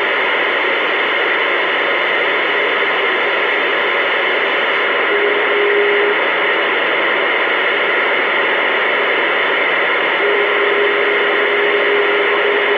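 CB radio receiver putting out a steady hiss of static with no one talking. A single steady tone sounds over the hiss for about a second around five seconds in, and comes back about ten seconds in.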